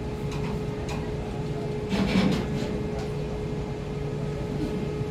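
Ferry's engines running with a steady low drone and hum. A brief louder noise rises over it about two seconds in.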